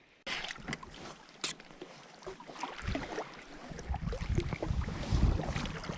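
Water sloshing and lapping around a plastic fishing kayak, with scattered small knocks and clicks. A low rumble, like wind on the microphone, builds from about three seconds in.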